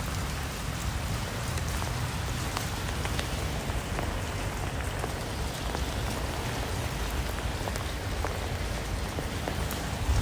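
Steady rain with many individual drops ticking.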